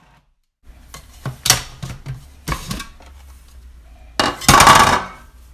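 Kitchenware being handled: a few sharp knocks and clinks of dishes and utensils, then a louder scraping clatter about four seconds in.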